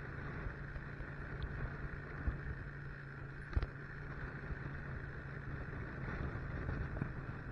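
Motorcycle engine running steadily under way, with wind and road noise, and a brief knock about three and a half seconds in.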